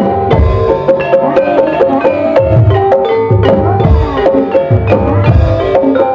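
Gamelan ensemble playing ebeg dance accompaniment: fast, dense strikes on mallet-struck pitched instruments over regular low hand-drum (kendang) beats.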